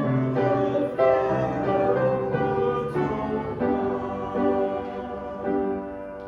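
Congregation singing a hymn with instrumental accompaniment, moving through held chords; the sound fades away near the end as the hymn closes.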